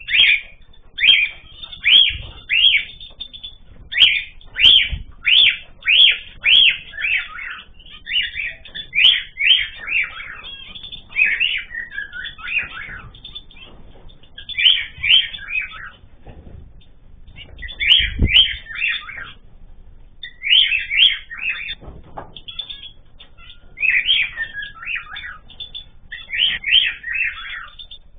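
Small cage birds chirping, short calls coming in quick clusters with brief pauses between them.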